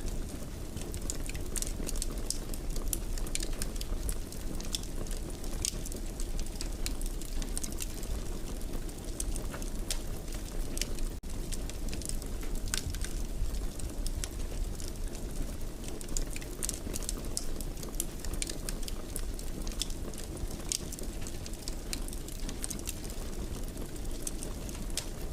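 Wood fire burning in a fireplace: a steady low rumble of flames under constant small, sharp crackles and pops. The sound drops out for an instant about eleven seconds in.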